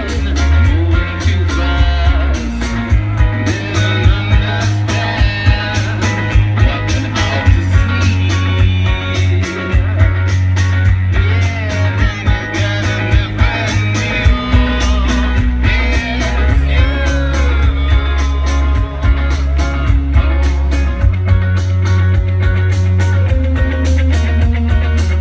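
Live rock band playing loudly: electric guitars over heavy bass and drums, with some singing, heavily overloaded in the low end as picked up by a handheld recorder in the crowd.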